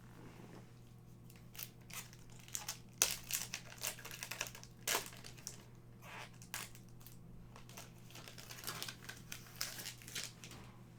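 Hockey card pack wrapper being torn open and crinkled by hand, in two bursts of crackling: one from about one and a half to five seconds in, another near the end.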